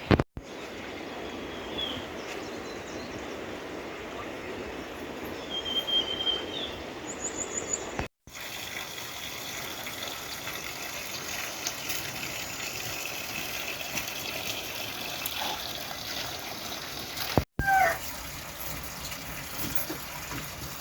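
A steady rush of running water, with a few short bird chirps on top. The sound drops out briefly twice, at about 8 and 17.5 seconds, where the shots change.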